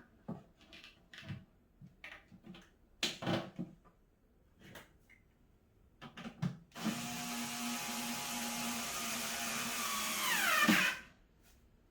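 Scattered light knocks and clicks, then a power drill runs steadily for about four seconds, its pitch dropping just before it stops.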